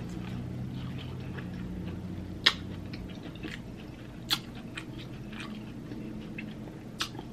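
A person chewing food with soft wet mouth sounds, broken by three sharp clicks spread across a few seconds, over a steady low hum.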